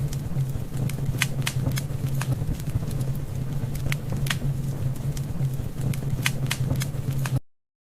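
Wood fire burning, with irregular sharp crackles and pops over a steady low rumble; the sound cuts off abruptly near the end.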